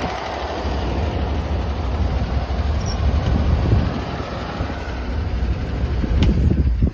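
1955 Ford Thunderbird's 292 Y-block V8 idling steadily, still warming after a cold start, with the air conditioning running.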